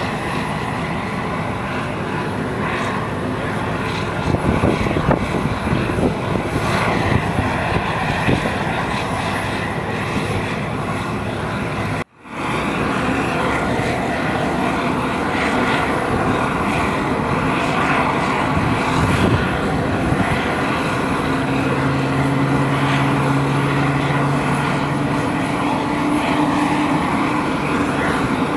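Aircraft engines running, a loud steady engine noise. It breaks off for an instant about twelve seconds in, and a low drone appears near the end and slowly rises in pitch.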